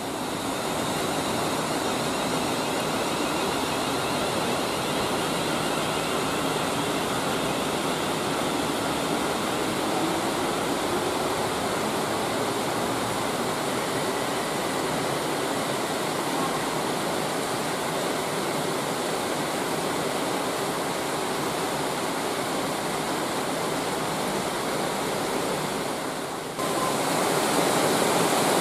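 Steady rain, an even hiss, with a faint whine fading out over the first several seconds. About two seconds before the end it changes abruptly to a louder hiss.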